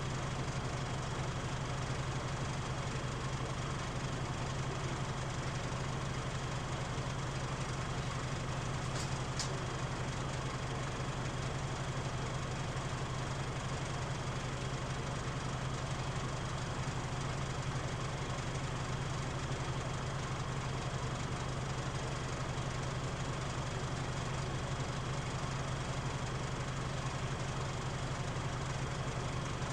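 Mitsubishi Fuso KL-MP37JK city bus diesel engine idling steadily, heard from inside the bus with the cabin vibrating and droning heavily at idle.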